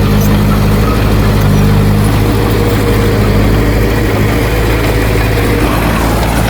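Heavy earthmoving machine's diesel engine running steadily, with a deep, even hum.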